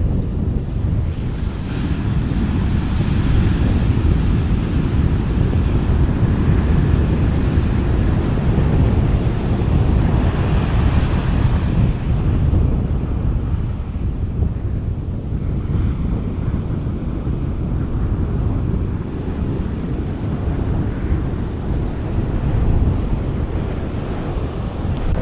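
Sea waves washing onto a beach, with brighter swells of wash a couple of seconds in and again about ten seconds in, over a steady low rumble of wind on the microphone.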